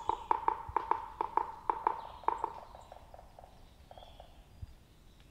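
A bird's call: a quick series of short, loud, evenly pitched notes that slows and fades away over about three seconds.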